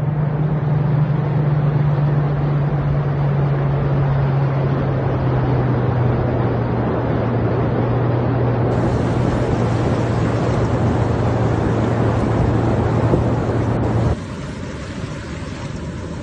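Loud rushing water noise from the flood and heavy rain, with a steady low engine hum beneath it. About fourteen seconds in, the hum stops and the rushing becomes quieter.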